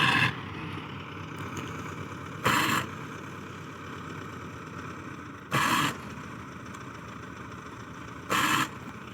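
Tractor engine running steadily, with four short, loud bursts of noise spaced about three seconds apart.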